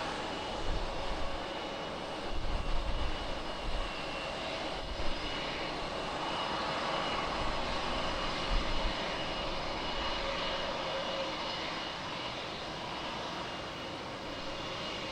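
Airliner engine noise: a steady rush with a faint whine, and a few brief low rumbles.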